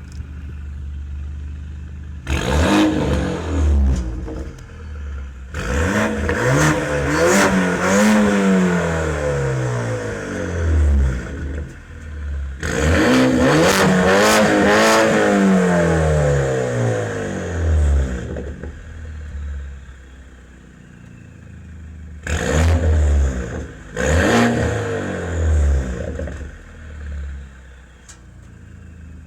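BMW 328i F30's turbocharged four-cylinder engine with an aftermarket full exhaust, idling and being revved up and let fall back several times, with two long rev sweeps in the middle and two short blips near the end.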